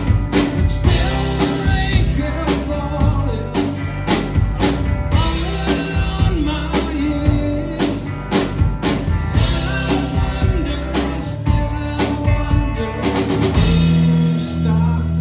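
Rock band playing a song on drum kit and guitars, with a steady beat.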